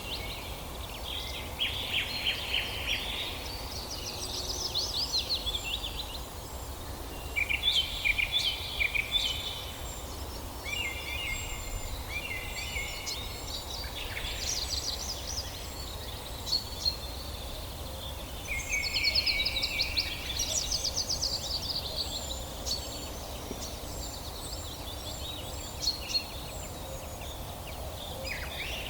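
Several songbirds singing in a forest chorus: repeated song phrases and fast trills, with short high chirps between them, over a steady low background hiss.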